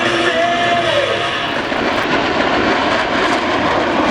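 Blue Angels F/A-18 Hornet jets flying past, a loud, steady jet roar. A whine in it drops in pitch about a second in as the jets go by.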